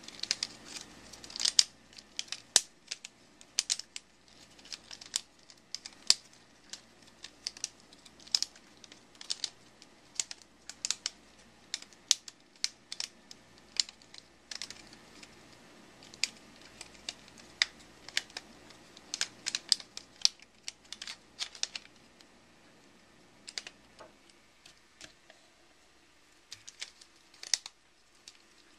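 Rubik's Snake's plastic segments clicking as they are twisted and snap into position, in irregular quick clusters of sharp clicks.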